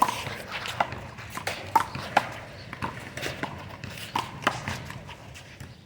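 A handball rally: a small rubber ball slapped by hand, hitting the wall and bouncing off the pavement, heard as an irregular string of sharp smacks.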